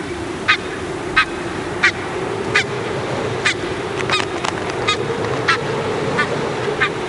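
Geese calling: short, sharp, high-pitched honks repeated roughly every two-thirds of a second, over a steady low hum.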